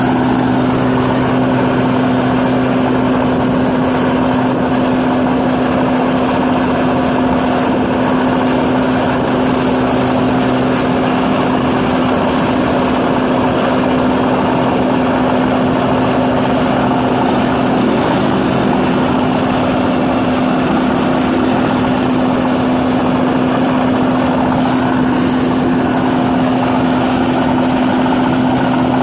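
New Holland 8060 combine harvester running steadily while harvesting paddy rice: a continuous loud machine drone with a strong steady hum over a dense rush of mechanical noise. A lower hum drops away about a third of the way through.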